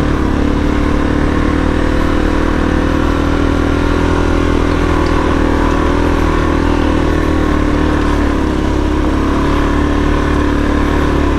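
Suzuki DRZ400S single-cylinder four-stroke dirt bike engine running at steady revs while being ridden along a dirt trail.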